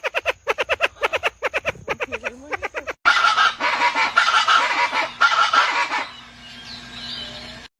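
Bird calls in two spliced clips: a fast run of repeated calls, about five a second, then after a sudden cut about three seconds in, harsher and noisier calling that fades near the end.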